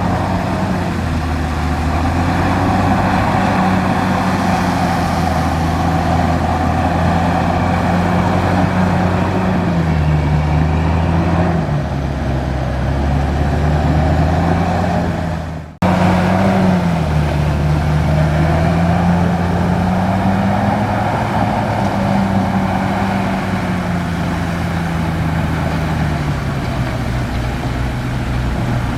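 Large bulldozer's diesel engine running under load, its pitch sagging and recovering every few seconds as it pushes dirt. The sound breaks off for an instant about 16 seconds in.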